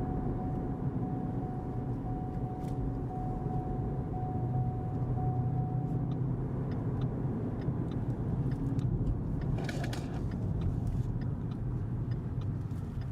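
2015 Mustang GT's 5.0 V8 running through an MBRP 3-inch cat-back exhaust, heard from inside the car with the windows down while cruising: a steady low exhaust rumble. A faint steady whine sits over it for about the first six seconds.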